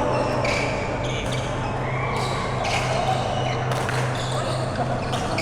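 Badminton rally: sharp racket strikes on the shuttlecock every half second to a second, with short shoe squeaks on the court floor, over a steady low hum in a hall.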